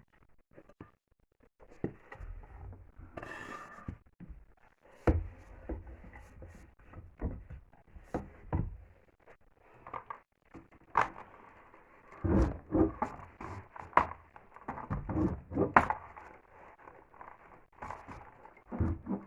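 Irregular wooden thuds and knocks with scraping and rubbing: a sofa being levered up with a wooden board. The loudest knocks come in clusters near the middle and later part.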